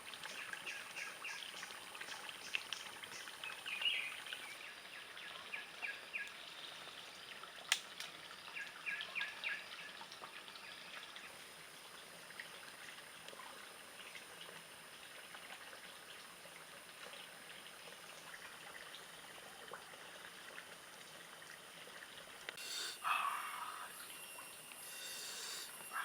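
Trickling, running water with a steady hiss. Over it come rows of short, quick chirps in the first ten seconds, a sharp click about eight seconds in, and a brief louder rustle near the end.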